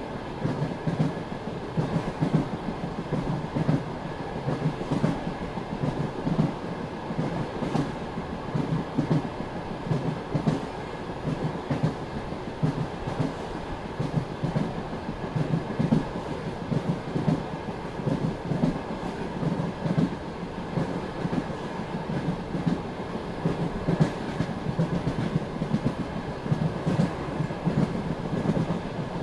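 Passenger-coach wheels clattering over rail joints with a steady rumble as the train runs at speed between stations.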